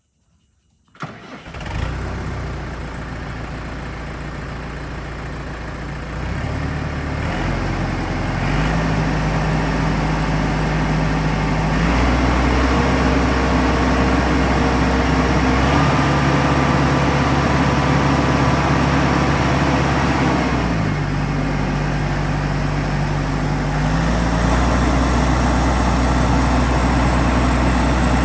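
Massey Ferguson 2680 tractor's diesel engine starting about a second in, then running. Its speed steps up and down several times.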